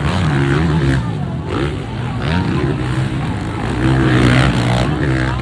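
Motocross dirt bike engines revving, their pitch rising and falling again and again as riders work the throttle through the course.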